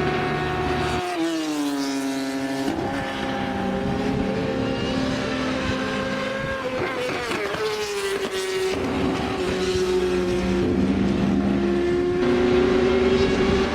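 High-revving racing engine run hard. Its pitch drops about a second in, climbs slowly again, dips once more around the middle, then holds fairly steady.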